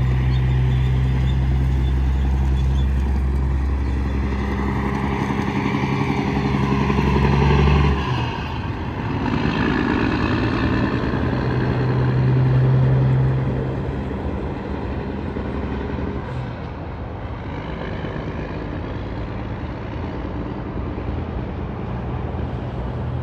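Semi trucks passing on the interstate: a steady diesel engine drone with tyre and wind noise. It is loudest as one truck goes by about eight seconds in, then it drops away, and another truck passes a few seconds later.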